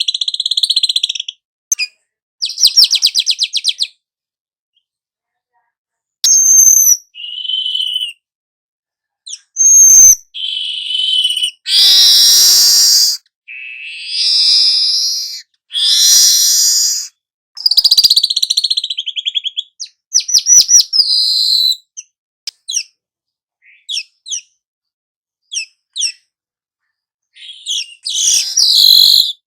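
Birdsong: a string of short, varied bird phrases with silent gaps between them, mixing rapid buzzy trills, chattering and clear whistled notes.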